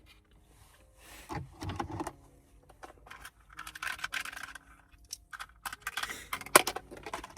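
Small objects being handled: irregular rustling and scraping with several sharp clicks, the loudest clicks in the second half.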